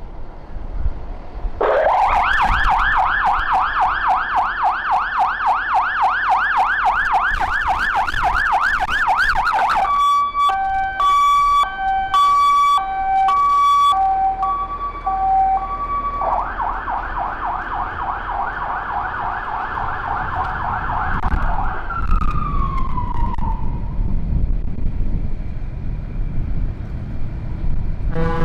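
Fire truck electronic siren: a fast yelp, then an alternating high-low two-tone, then the yelp again, winding down with a falling pitch about 22 seconds in. The truck's engine rumbles after it, and a horn blast begins right at the end.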